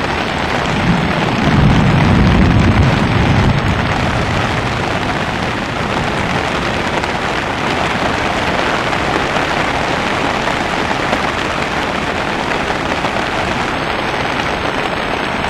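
Steady, loud noise of torrential rain and rushing floodwater, with a louder low rumble about a second in that lasts a couple of seconds.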